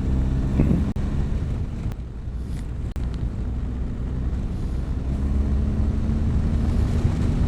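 Motorcycle engine running under way, with wind noise on the microphone. The engine note drops back about a second in and comes back steady from about halfway through.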